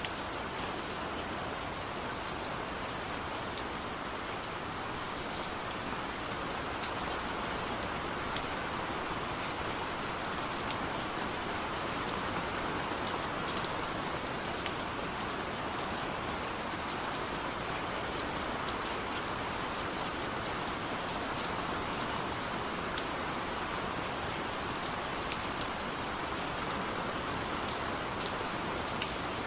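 Steady rain falling: an even hiss with scattered individual drop ticks. No thunder is heard.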